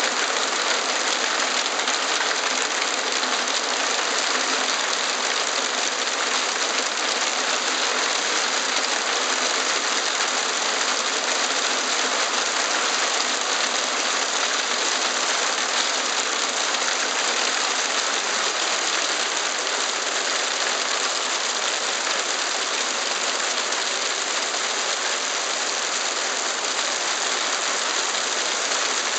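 Heavy hailstorm: hail and rain falling hard as a dense, steady hiss.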